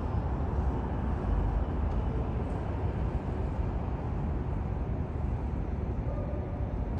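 Steady low rumble of outdoor street traffic noise.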